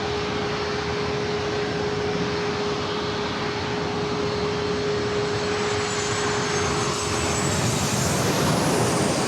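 Jet airliner passing low overhead: a steady engine roar that swells near the end, with a high whine falling in pitch as it goes by. A steady hum runs underneath and fades out about seven and a half seconds in.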